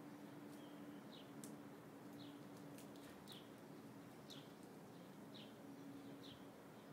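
A small bird chirping outdoors, short falling chirps about once a second, faint over a low steady hum.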